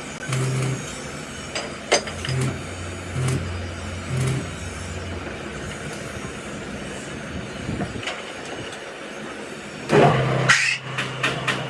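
Occasional sharp metal knocks of roadside repair work on a van's rear axle, over traffic noise. About ten seconds in, a vehicle's sound swells loudly, followed by a low steady engine hum with rapid even ticking.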